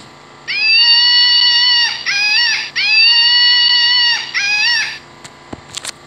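Recorded monkey call played from the electronic sound box of a Wild Republic Audubon bonnet macaque plush: two long, high shrieks, each followed by a couple of short calls, played through the toy's tiny speaker. A few sharp clicks follow near the end.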